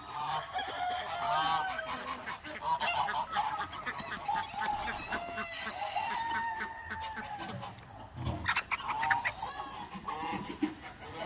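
Domestic geese honking repeatedly, with other farmyard poultry calling among them.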